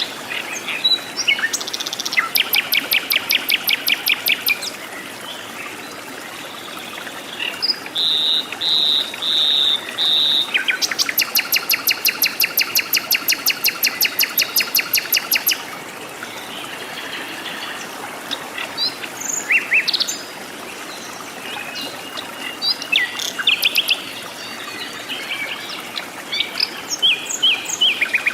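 Forest birds calling. A fast, even trill runs from about two to five seconds in, and a longer one from about eleven to fifteen and a half seconds. Between them comes a run of four clear notes around eight seconds, and short scattered chirps follow later, all over a steady background hiss.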